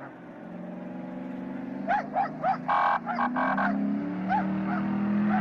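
Porsche Cayenne engine revving under load as its wheels spin in loose sand, growing louder with its pitch rising over the second half. A run of short, sharp yaps from a small dog about two to four seconds in, and a couple more near the end.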